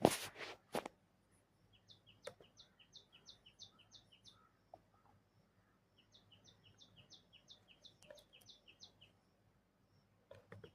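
A bird chirping in two runs of quick, repeated high chirps, about four a second, the second run starting about six seconds in. A few sharp clicks sound right at the start.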